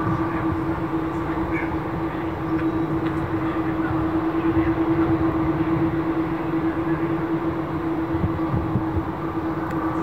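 Jet aircraft engines running steadily: a constant low hum with a fainter, higher whine over a rush of engine noise.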